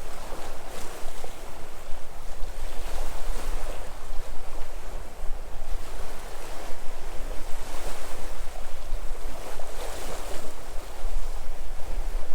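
Sea waves surging and washing ashore in a steady hiss that swells every two to three seconds. Wind on the microphone adds a low rumble underneath.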